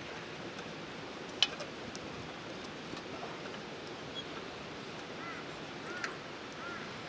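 Small wood fire in a Firebox Nano stove crackling over a steady hiss, with one sharp pop of burning wood about a second and a half in and a few lighter ticks. Near the end a bird gives a few short chirps.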